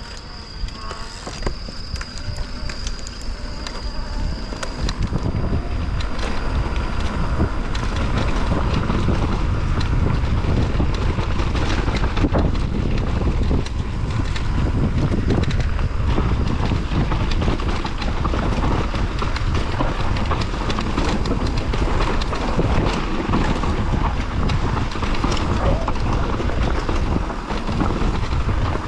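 Mountain bike rolling down a rutted dirt trail: tyres crunching and clattering over ruts and stones, with wind rumbling on the microphone that builds as speed picks up after about five seconds. A steady high insect trill sounds for the first few seconds.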